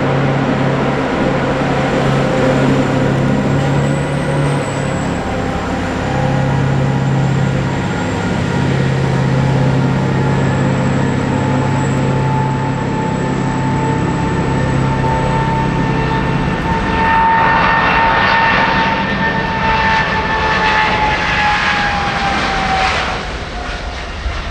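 Jet airliner engines running with a steady high whine over a low hum. About two-thirds through, a louder, rougher rush of engine noise comes in, and near the end the whine drops in pitch as the aircraft goes by.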